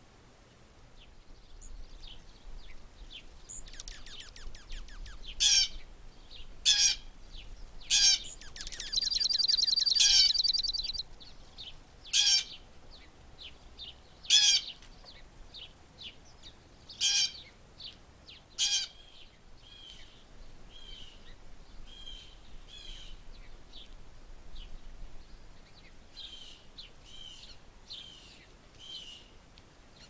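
Wild songbirds calling in a backyard: a series of loud separate calls, one every second or two, with a fast trill lasting about two seconds a third of the way in, then softer chirps.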